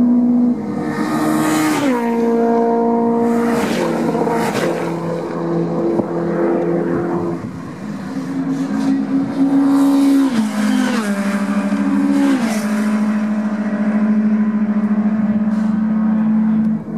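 Touring race car engines at high revs on the circuit, the engine pitch dropping in steps several times as cars go by or shift gear.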